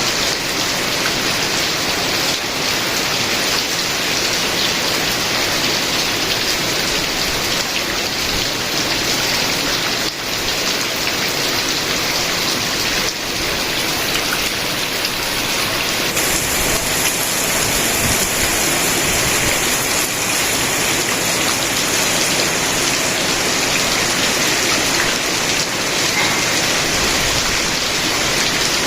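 Steady heavy rain falling, an even hiss of many drops with no let-up.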